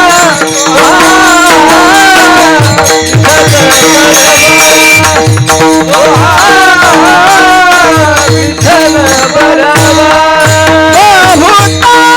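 Marathi devotional bhajan: a male voice sings long, high, ornamented notes without clear words over a steady drone, with regular pakhawaj drum strokes and jingling percussion.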